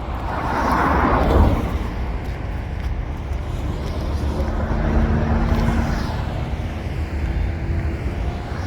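Road traffic: cars passing close by, one swelling up and fading about a second in, and another with a steady engine hum passing around five to six seconds in, over a constant low traffic rumble.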